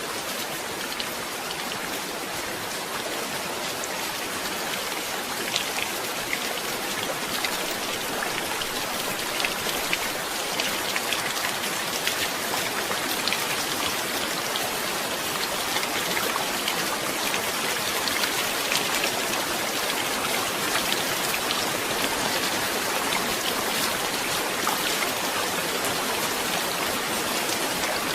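Steady heavy rain falling on surfaces, a continuous hiss dotted with many small drop ticks, building slightly in intensity partway through.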